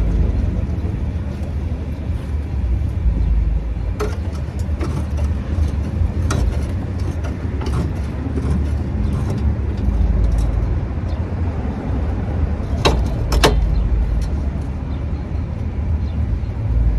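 Steady low engine rumble from a motor vehicle, rising and falling a little in level, with a few sharp clicks, two of them close together near the end.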